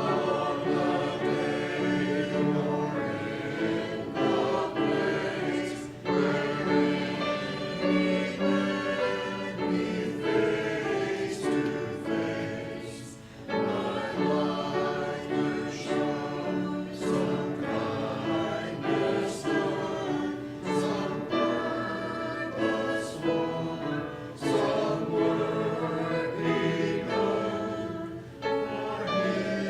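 A group of voices singing a hymn together, in sustained phrases with short breaks between lines.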